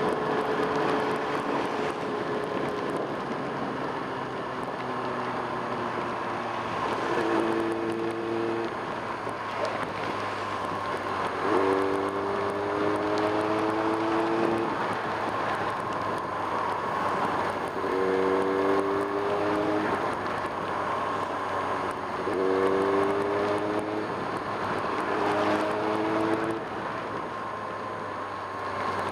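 1995 Kawasaki Ninja ZX-6R's inline-four engine pulling through the gears five times, its pitch climbing on each burst of throttle and dropping back at each shift. This runs over a steady rush of wind and wet-road noise.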